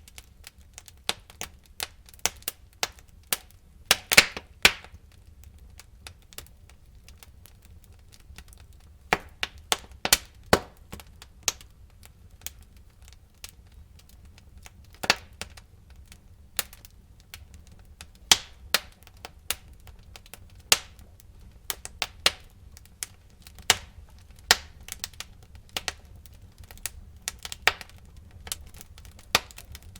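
Wood fire burning in a fireplace: logs crackling with irregular sharp pops, a few louder cracks among many smaller ones, over a low steady rumble.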